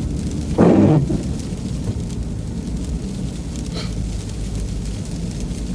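A windshield wiper makes one short, loud swish across the windshield about half a second in, over the steady road and engine rumble heard inside the truck cab.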